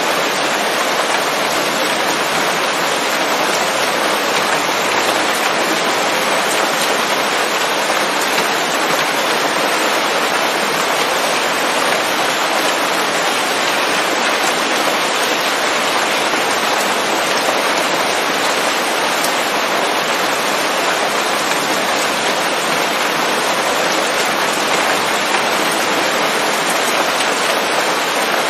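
Steady rain falling on leaves, an even hiss of drops with no thunder and no change in strength.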